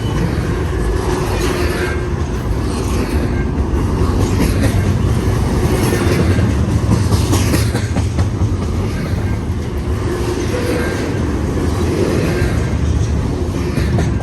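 Intermodal freight cars rolling past at speed: a steady rumble of steel wheels on rail with a repeating clatter as the wheel sets cross rail joints.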